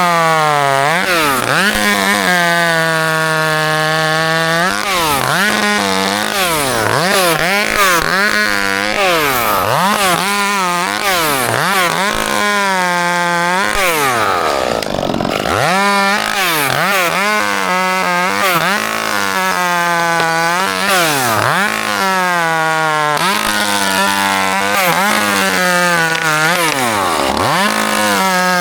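Two-stroke chainsaw running hard, its engine note repeatedly dropping and climbing back as it bogs down in the cut and frees up again, every second or two.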